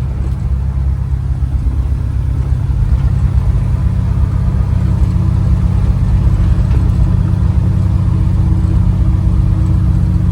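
Chevrolet C-10 pickup under way: a steady engine drone and road noise, growing a little louder over the first few seconds and then holding steady.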